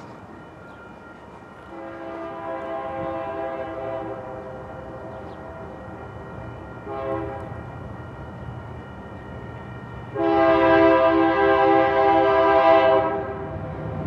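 Multi-chime air horn of the lead Union Pacific GE AC44CW freight locomotive sounding a long blast, a short blast, then a louder long blast about ten seconds in, over the low rumble of the approaching diesel locomotives.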